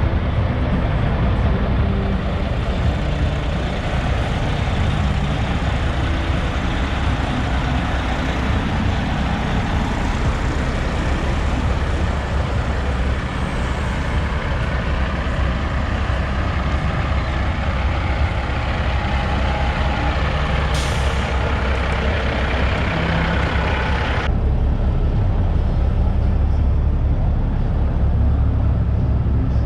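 Diesel engines of semi trucks running as they roll in, a steady heavy rumble, with a brief hiss of air about two-thirds of the way through.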